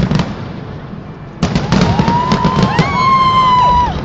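Fireworks display: a few cracks, a short lull, then from about one and a half seconds in a dense run of bangs and crackling. Over it, several whistling fireworks shriek and glide in pitch for about two seconds.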